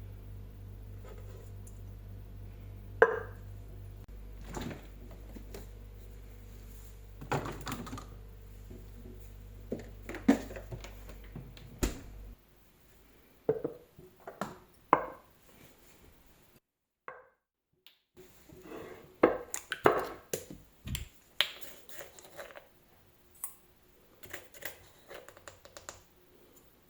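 Kitchen work sounds: scattered light knocks, taps and clicks of utensils and dishes being handled. Under them runs a steady low hum that cuts off about twelve seconds in.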